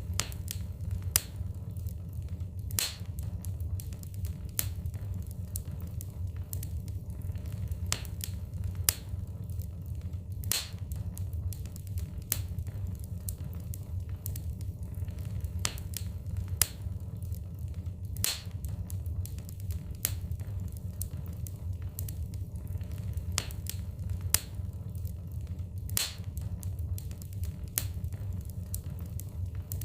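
Wood fire burning in a fireplace: a steady low rumble with frequent irregular crackles and sharper pops from the burning logs.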